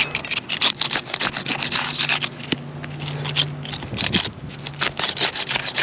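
Asphalt shingles being pried loose from their sealant strips: a rapid, irregular run of sharp pops and scrapes as the sealed tabs tear free. Simply unsealing them chips and damages the shingles.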